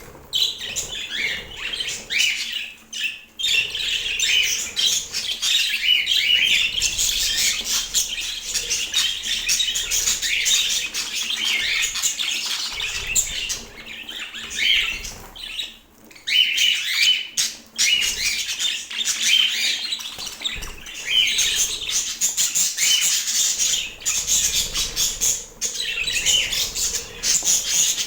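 Budgerigar chattering and warbling, a fast run of high chirps with short lulls about three seconds in and again around the middle.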